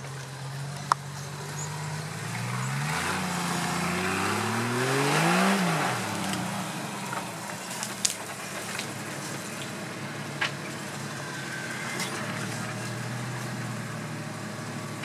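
Off-road 4x4 engine running low, then revving up about three seconds in and dropping back a couple of seconds later, with a few sharp knocks.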